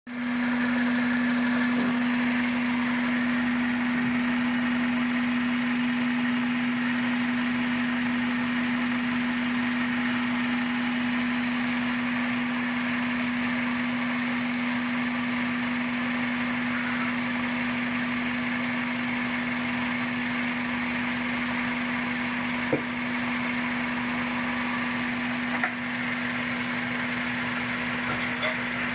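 Toyota 2NZ four-cylinder petrol engine idling steadily with an even hum, freshly overhauled. A few brief clicks come near the end.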